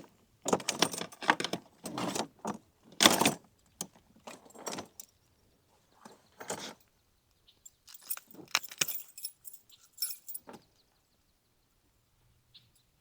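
Metal fishing tackle (hooks, lure and tools) clinking and rattling in irregular bursts as it is handled, with quiet gaps between.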